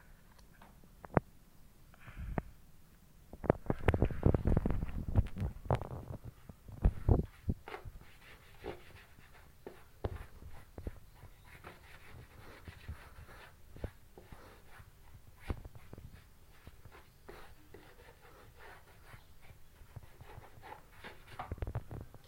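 A sponge being rubbed over motorbike bodywork to spread polish: irregular rubbing and soft knocks, busiest about four to seven seconds in, then fainter scattered ticks.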